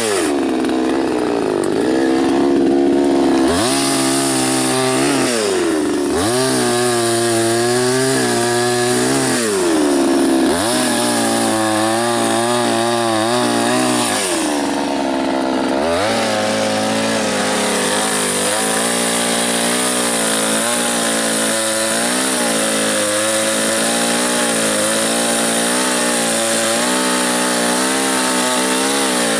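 Soyuz PTS-99520T petrol chainsaw bucking a dry birch trunk into firewood rounds. The engine speed drops and climbs back several times in the first half, then holds high with a slight wavering through the second half.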